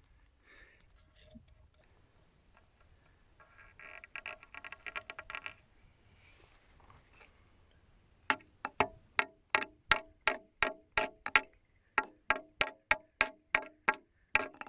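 Hammer blows ringing as nails are driven into wood, about three strikes a second, in two runs separated by a short pause. About four seconds in there is a shorter, faster run of metallic clicks.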